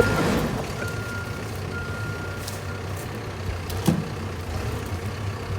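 Heavy vehicle's reverse alarm beeping twice over a steady low engine rumble, with a single sharp knock about four seconds in.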